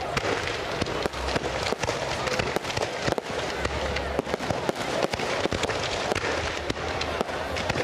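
Fireworks display: a dense, continuous run of sharp bangs and crackles going off in quick succession.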